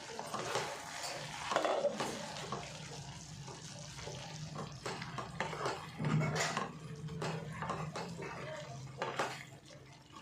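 Metal kitchen utensils and pots clinking and clattering in irregular strokes.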